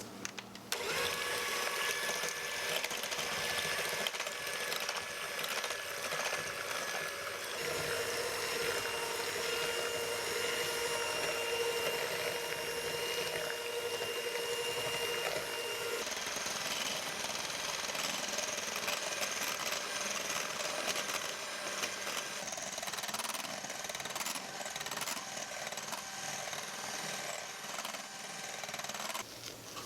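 Electric hand mixer running steadily, its beaters whisking eggs and sugar in a bowl for genoise sponge batter. The motor's tone shifts abruptly twice.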